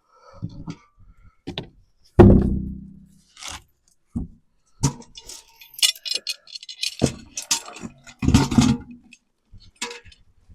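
Clatter of things being handled: a loud knock with a short ringing decay about two seconds in, then scattered clicks, knocks and jangling rattles.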